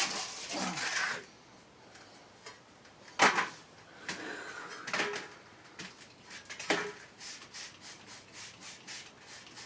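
Rubbing and scraping of handled objects, with two sharp knocks and a run of light ticks near the end.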